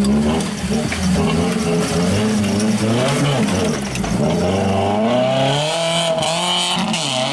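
Off-road race truck engine revving up and down repeatedly, its pitch climbing higher in the second half.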